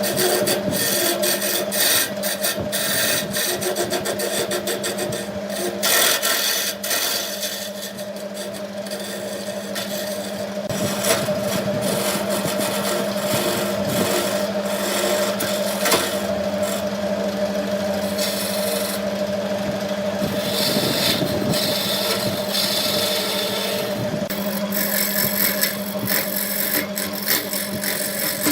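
Wood lathe running with a steady motor hum, while a tool scrapes against the spinning wood workpiece.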